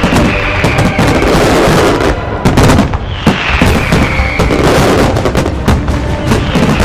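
Dense, continuous barrage of firework bangs, crackling like rapid gunfire, with two whistling shells falling in pitch, one at the start and one about three seconds in.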